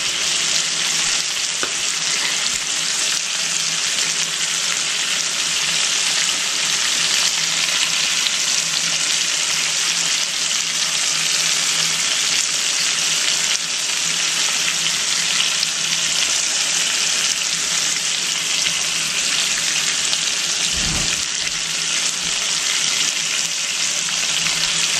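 Butterflied whole chicken frying in a skillet, a steady sizzle as it cooks on its bottom side. A soft low bump sounds once, about three quarters of the way through.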